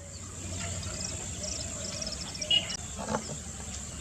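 Outdoor wetland ambience: a steady hiss of background noise with faint, high bird chirps and insect calls, and a brief louder sound about three seconds in.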